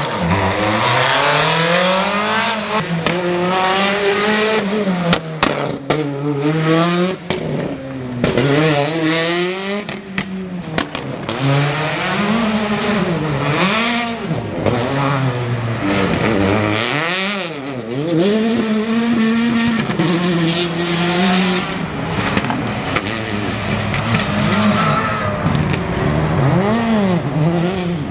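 Rally car engines at full throttle, revving up and dropping back over and over through gear changes and lifts as the cars go by, with some tyre squeal and a few sharp cracks.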